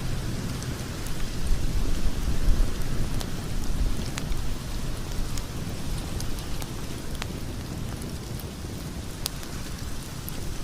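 Logs burning in a fireplace: scattered sharp crackles and pops over a steady low rumble of the flames, which is a little louder in the first few seconds.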